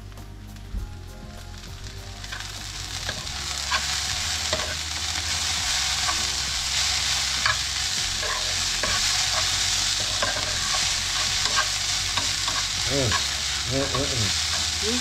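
Ground chicken patty filling sizzling in a frying pan as a spoon stirs it, with light clicks and scrapes of the spoon against the pan. The sizzle builds over the first few seconds and then holds steady.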